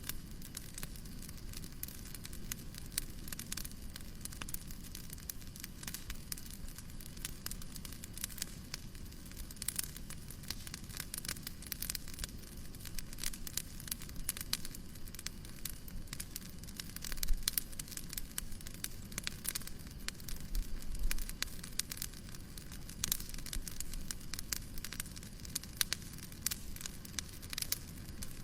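Wood fire crackling in a fireplace, with many small irregular pops and snaps over a steady soft hiss of white noise; one sharper pop stands out a little past the middle.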